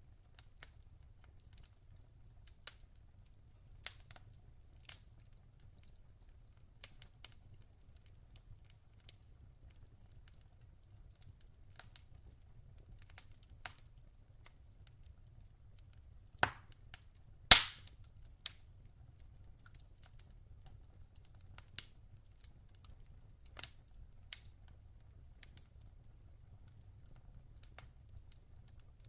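Log fire crackling: scattered sharp pops and snaps from burning wood over a faint low rumble, with two loud pops about a second apart just past the middle.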